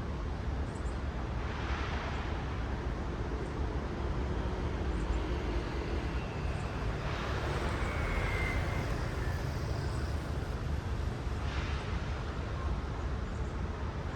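Road traffic: a steady low rumble of city traffic, with cars passing one after another, each swelling and fading as its tyres hiss by, three times.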